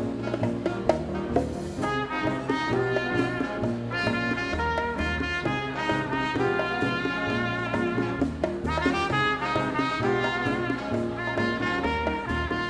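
A Latin dance band playing live, its brass section of trumpets and trombones playing held chords from about two seconds in, over a steady bass line and percussion.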